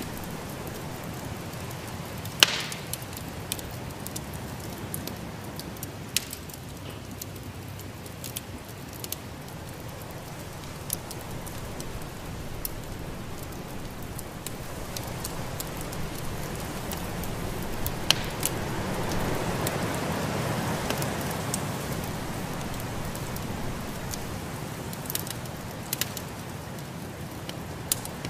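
Wood fire in a fireplace crackling, with scattered sharp pops, the loudest about two and a half seconds in and again around eighteen seconds. Underneath runs a steady low rush that swells for a few seconds past the middle.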